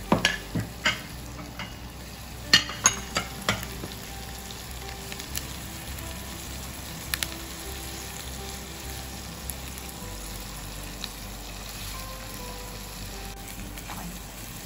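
Chunks of pork with garlic and onion frying in oil in a pan, a steady sizzle. A utensil knocks against the pan as the food is stirred: several sharp knocks in the first second and again about two and a half to three and a half seconds in.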